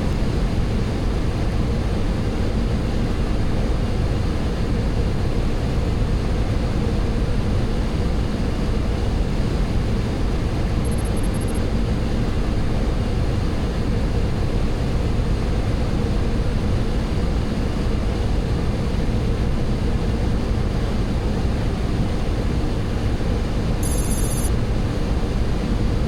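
Steady rush of airflow and engine noise on a Boeing 737-800 flight deck during an approach. Two brief high-pitched electronic beeps sound, one about halfway through and one near the end.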